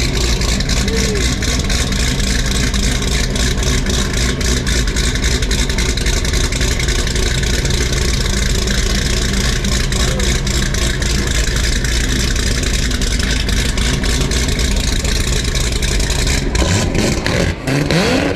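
A vehicle engine running steadily under a crackly rushing noise. Near the end the engine note changes and rises in a short rev.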